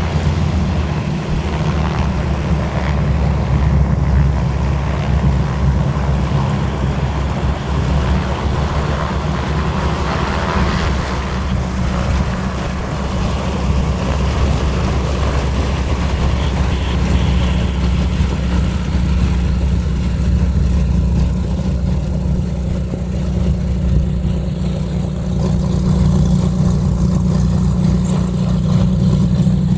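Douglas C-47 Skytrain's twin radial engines running with a steady, deep drone, the level holding even throughout.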